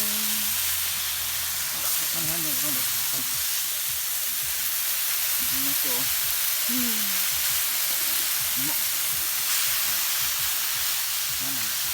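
Meat sizzling steadily on a hot iron griddle, with faint voices in the background.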